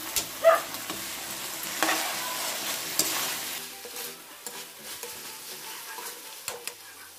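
Diced luncheon meat and tuna sizzling in a wok while a metal spatula stirs them, scraping and clicking against the pan. The sizzle and scraping are louder for the first three and a half seconds, then quieten.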